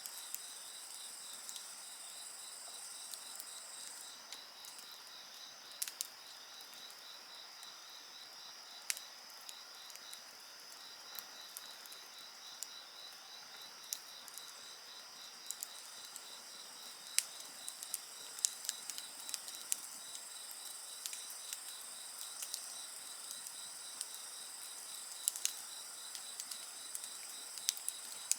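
A steady chorus of crickets and other insects trilling at several high pitches, one of them a fast, even pulsing trill, while a wood fire crackles with irregular sharp pops that come more often in the second half. The highest-pitched insect drops out about four seconds in and comes back near the end.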